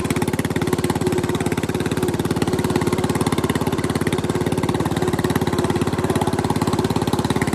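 Bolens riding mower's small engine running steadily through a homemade exhaust, a fast, even train of exhaust pulses at constant speed.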